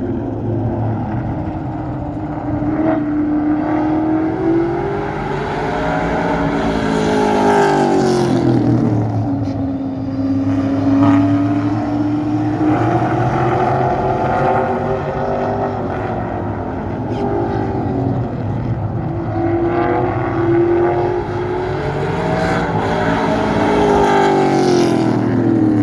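A vehicle engine running, its pitch rising and falling in slow swells several times over a steady low hum.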